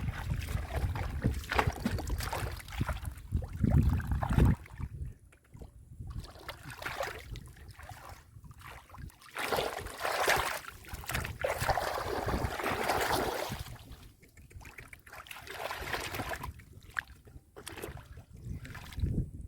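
Water sloshing and splashing in irregular spells, with wind rumbling on the microphone in the first few seconds.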